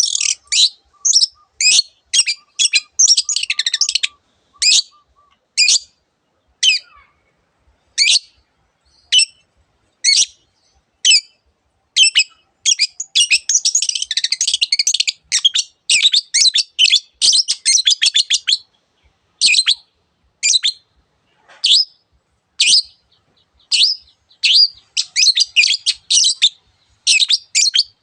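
Long-tailed shrike singing: sharp, high, short calls at about one a second, broken by bursts of fast, dense chattering.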